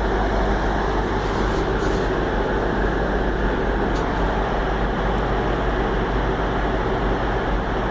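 Class 159 diesel multiple unit 159004 running at the station, a steady diesel drone that holds the same level throughout.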